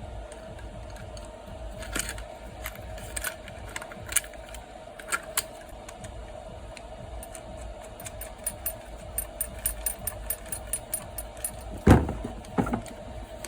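Small metal carburetor parts clicking and clinking as they are fitted by hand: scattered sharp clicks, then a quick run of light ticks, and one louder knock near the end. A faint steady hum runs underneath.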